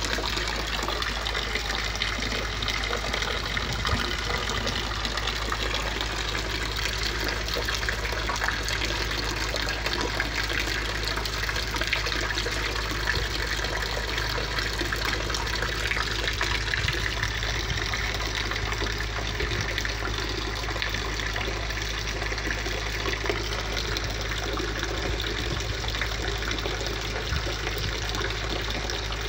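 Steady rain falling on a concrete yard, an even hiss of drops that keeps up without a break.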